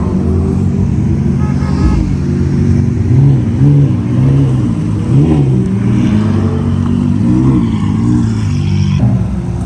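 Car engine running under way, its revs rising and falling several times.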